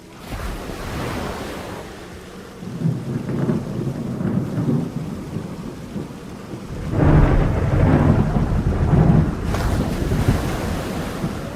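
Steady rain with rolling thunder rumbling twice, the second roll louder, about seven to nine seconds in.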